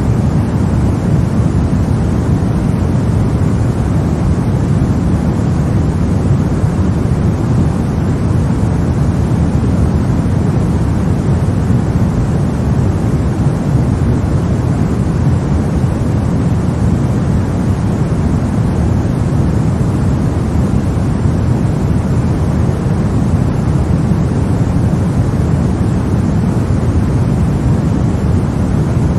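Steady white noise played to lull a baby to sleep: an even, deep hiss with most of its weight low down, like a distant rumble.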